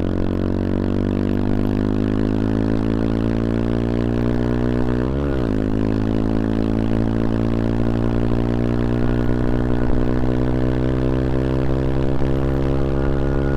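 CFMoto Papio XO-1's small single-cylinder engine pulling under load while riding, its revs climbing slowly and steadily. About five seconds in the revs make a quick sharp swing and recover, as at a gear change.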